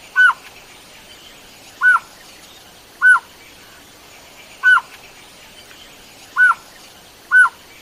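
A bird calling: six short, clear notes, each quickly rising then falling in pitch, spaced one to two seconds apart.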